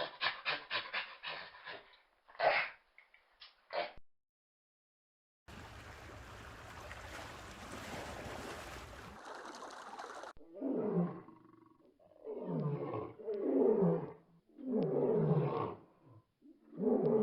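A dog yips rapidly for the first few seconds. After a pause and a stretch of outdoor noise, a large wild animal gives four long roars, each falling in pitch.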